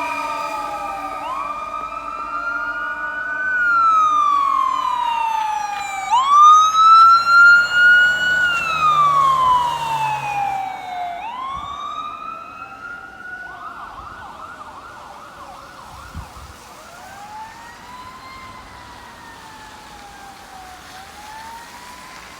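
Emergency sirens passing and moving away: a fire engine's siren wailing up and down in slow sweeps, loudest about a quarter of the way in, switching briefly to a fast warble about halfway, then fading into the distance with a second siren wailing out of step with it.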